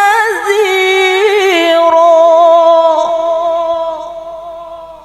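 A woman chanting Quran recitation in the melodic tilawah style. She draws out a vowel with fast wavering ornaments, then settles about one and a half seconds in on one long held note that fades away near the end.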